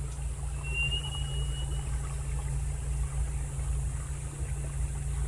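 Steady low hum of a boat motor idling. About half a second in, a single thin rising whistle lasts about a second.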